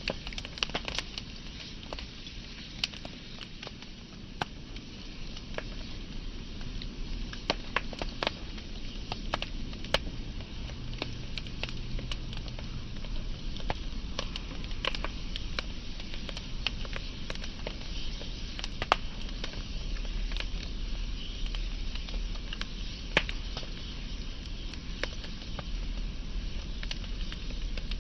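Wood fire burning: frequent sharp, irregular crackles and pops over a steady hiss and low rumble of the flames.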